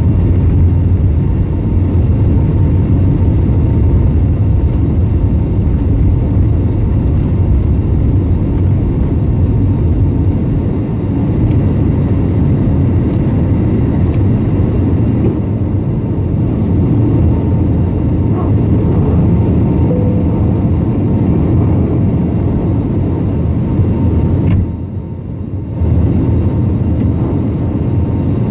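Airbus A320neo airliner cabin noise: a steady, loud low rumble of the engines and air systems, with a brief drop in level about three-quarters of the way through.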